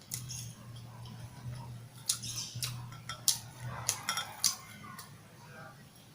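Close-up eating sounds from a person chewing grilled barbecue: a string of sharp, irregular clicks and smacks, loudest in the middle, over a low hum that stops about four seconds in.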